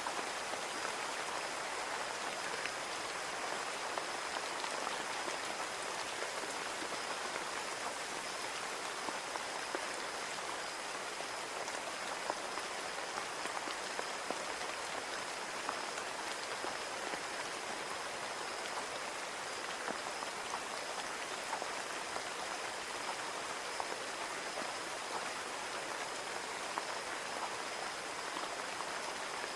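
Steady rain pattering on a window pane: an even hiss of falling rain with many small drop ticks scattered through it.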